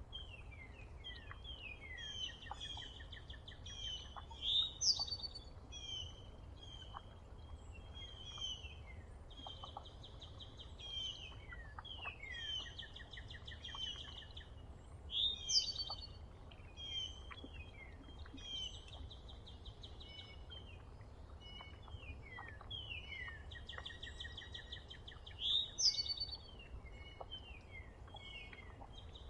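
Several songbirds calling and chirping, with many short falling notes and buzzy trills. A louder call stands out three times, about ten seconds apart, over a steady low rumble.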